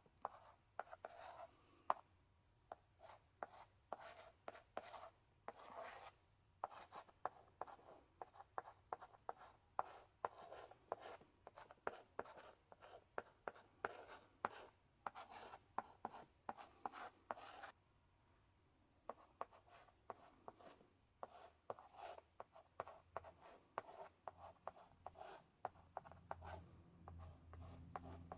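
Chalk in a chalk holder writing on a blackboard: short scratchy strokes and sharp taps as the chalk meets the board, with a brief pause about two-thirds of the way through.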